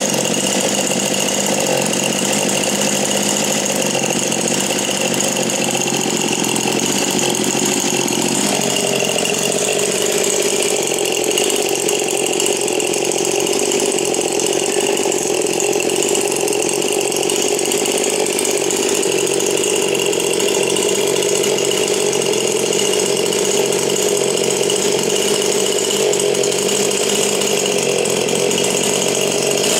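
Stihl MS 291 two-stroke chainsaw fitted with a Buckshot test muffler, running loud and steady at high revs. About eight seconds in its pitch drops and then holds lower.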